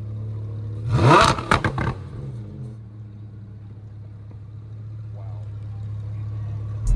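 Car engine idling low and steady, blipped once about a second in: a quick rising rev that drops back to idle with a few sharp cracks from the exhaust.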